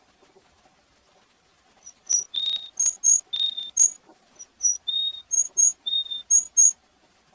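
Varied tit singing. Starting about two seconds in, short high notes alternate with longer, lower whistles, repeated about four times.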